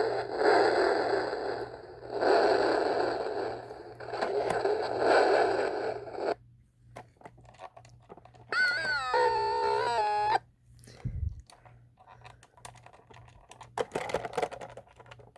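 Toy truck's electronic sound effects glitching: three harsh noisy bursts about two and a half seconds apart, then a short electronic tone that slides down in pitch and holds, followed by scattered clicks and a thump.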